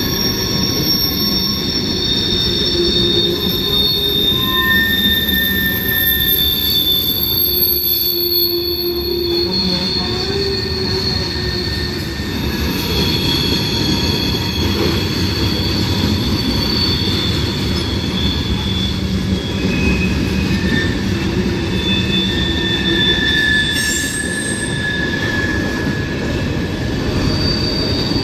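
Freight train cars rolling past over the crossing, a steady loud rumble of wheels on rail, with high-pitched wheel squeals that come and go at several pitches throughout.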